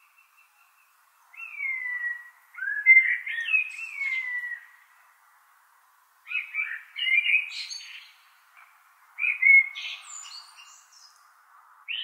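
Bird song: three phrases of chirps and whistled notes that slide downward in pitch, each about two seconds long, with short pauses between.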